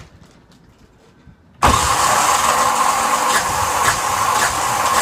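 Yanmar SB12 single-cylinder marine diesel starting about a second and a half in, then running steadily, just after its fuel system was bled again to cure a fuel-line fault that kept making it die.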